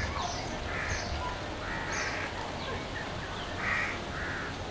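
Birds calling: a run of short, rough calls about once a second, with quick high chirps in between.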